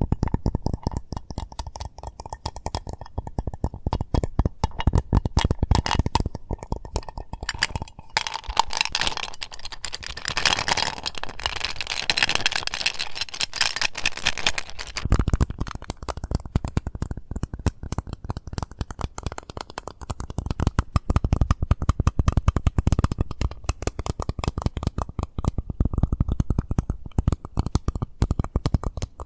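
Rapid, continuous tapping on an Eclipse mint case, the taps clustered close together, brighter and sharper for a few seconds in the middle.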